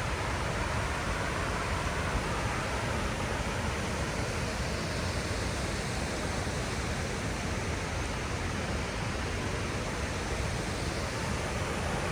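Large waterfall's falling water, a steady, unbroken rush.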